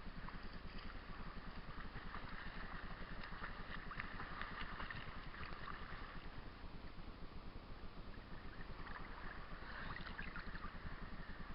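Ocean water washing and fizzing, with a low rumble and steady crackle, swelling slightly near the end.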